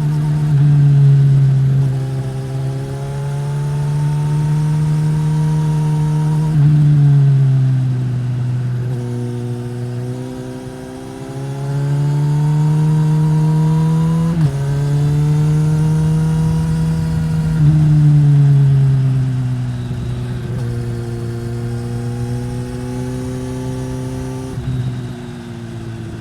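2015 Suzuki GSX-S1000's inline-four engine through a Yoshimura R-11 slip-on exhaust, pulling under throttle. Its pitch climbs steadily and then steps down abruptly at gear changes, about five times.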